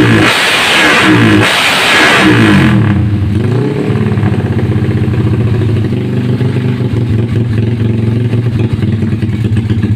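Honda GL single-cylinder four-stroke motorcycle engine with an aftermarket Pekajaman exhaust, revved in three quick blips, then dropping about three seconds in to a steady idle with one small blip shortly after. It is running on an upgraded Suzuki Shogun CDI ignition under test.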